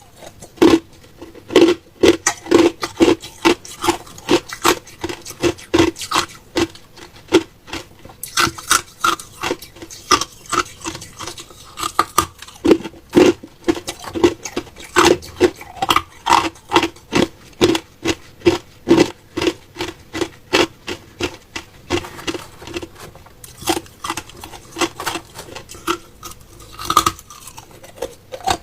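Ice being chewed and crunched close to the microphone: a steady run of sharp crunches, about two a second, with smaller crackles between.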